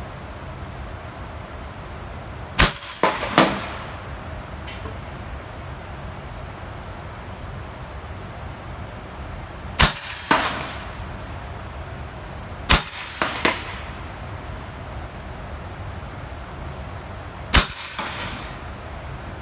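Four shots from an AEA Terminator .35 big-bore PCP air rifle, spaced a few seconds apart. Each sharp crack is followed within about a second by one or two softer cracks.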